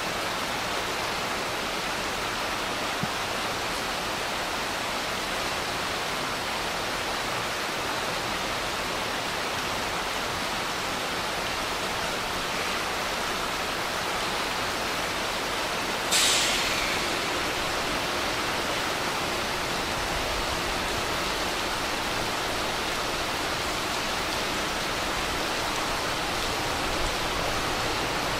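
Steady hiss of heavy rain falling. About halfway through, a sudden sharp hiss breaks in and fades away over about a second.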